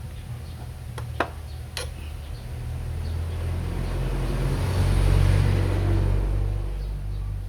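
A motor vehicle passing: a rushing engine-and-road noise swells, peaks about five seconds in and fades, over a steady low hum. Two sharp clicks sound a little over a second in.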